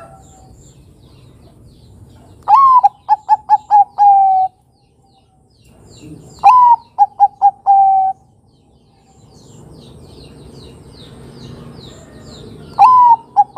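Zebra dove (Bangkok-type perkutut) cooing its song twice, with a third song starting near the end. Each song is a bending opening note, a quick run of short clipped notes and a long held final note. Faint high chirping of other birds runs in the background.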